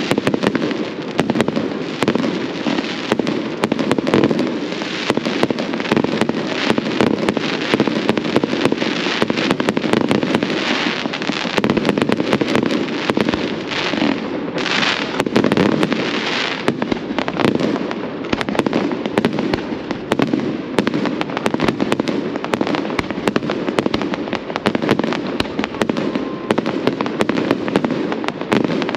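Fireworks display: a dense, continuous run of bangs and crackles, with a louder crackling stretch about halfway through.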